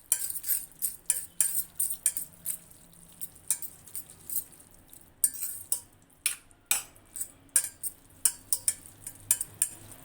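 A utensil clinking and scraping against a pot while stirring spaghetti in sauce, with irregular sharp knocks several times a second.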